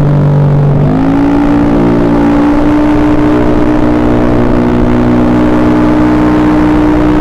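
Honda BeAT carburetted scooter's rebuilt single-cylinder engine running, revved up smoothly about a second in and then held steady at the higher rpm.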